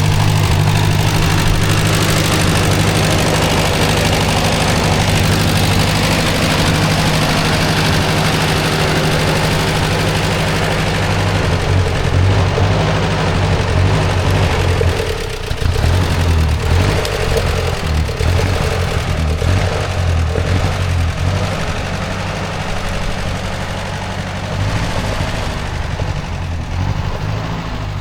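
Ford Jubilee tractor's four-cylinder gasoline engine running steadily, its note changing about halfway through and the level easing slightly near the end.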